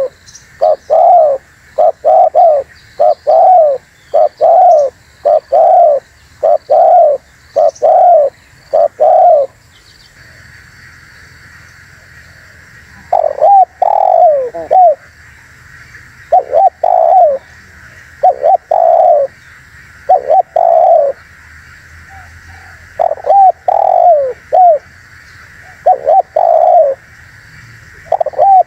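Spotted dove (tekukur) cooing. A fast run of short, evenly spaced coos lasts about nine seconds, then after a pause of about three seconds the coos return in short groups of two or three. A faint steady hiss runs underneath, clearest during the pause.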